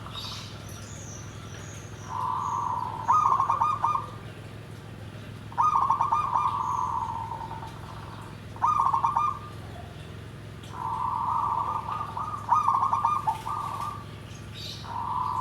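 Zebra dove (perkutut) cooing: a series of rolling, warbled coo phrases, one every few seconds, in the big, dry voice that keepers call gedhe garing.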